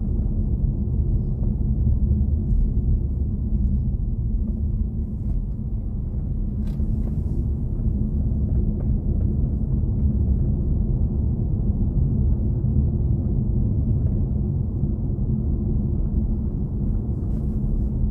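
Steady low road and tyre rumble of a BMW i4 M50 electric car driving along. There is no engine note, only the even rumble of the drive.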